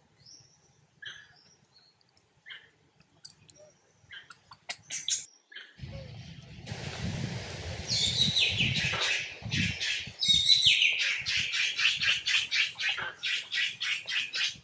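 A bird calling in a fast run of high, loud chirps, several a second, each run opening with falling notes, after a few faint scattered chirps. A low rumble sets in suddenly under it.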